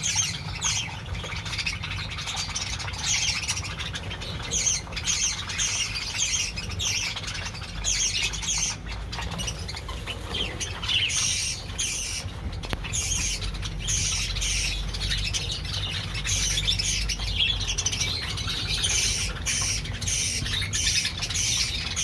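A colony of budgerigars chirping and squawking, many birds calling over one another without a break, over a low steady hum.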